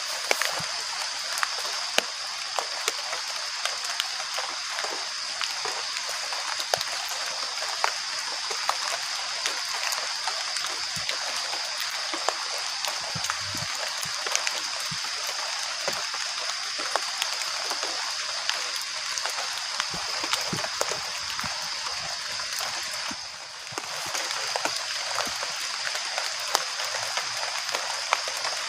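Steady light rain falling in a forest at night, with scattered drips and sharp ticks and a constant high-pitched hiss over it. The sound dips briefly about 23 seconds in.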